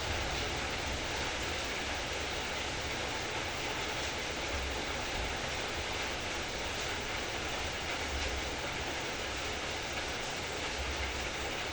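Heavy rain falling steadily, a dense even hiss, with an uneven low rumble underneath.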